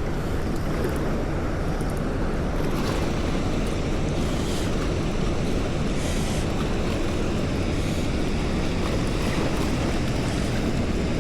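Steady rushing noise of river water, even and unbroken.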